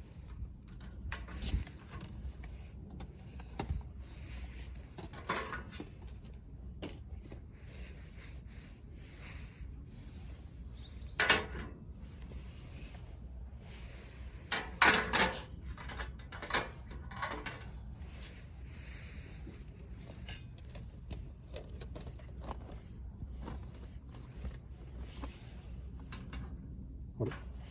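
Scattered knocks and clatters of hard objects being handled and set down, the loudest about 11 seconds in and a cluster about 15 seconds in, over a steady low rumble.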